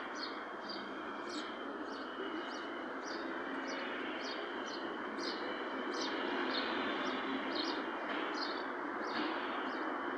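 Small birds chirping over and over, short sharp descending chirps about two a second, over a steady hum of background noise.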